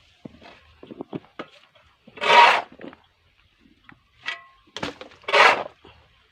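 A shovel scooping: two long scrapes about three seconds apart, with light knocks and clicks between them.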